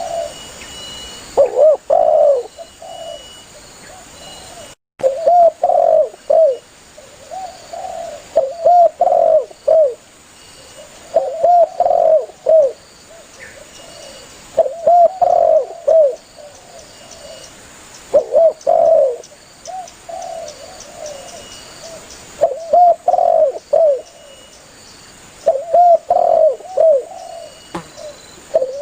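Spotted dove (tekukur) cooing over and over, phrases of several short coos about every three seconds: the lively calling used to lure other doves.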